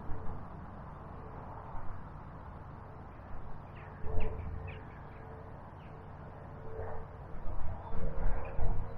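Small birds chirping briefly over a steady rush of background noise, with several loud low bumps about four seconds in and again near the end.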